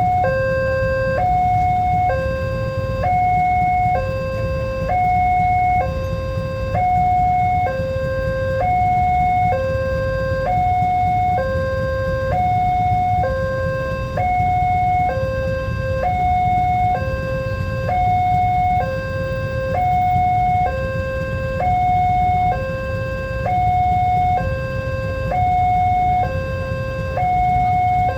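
Level-crossing electronic warning alarm sounding a two-tone signal, a higher and a lower tone alternating about once a second, which warns that a train is approaching. A steady low rumble runs underneath.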